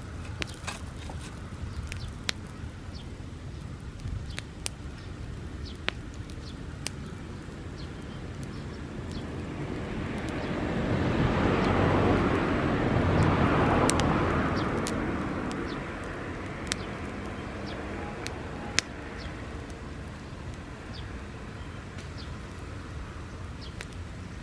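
Bonfire of dry grass burning, with sharp, irregular pops and crackles. Near the middle a broad rushing noise swells up for a few seconds and fades away again.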